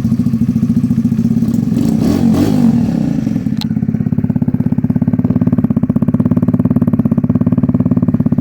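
2017 Kawasaki Z125 Pro's 125 cc single-cylinder four-stroke engine running through an aftermarket exhaust pipe and intake, just after starting. It rises briefly in a short rev about two seconds in, then settles to a steady idle with an even pulse.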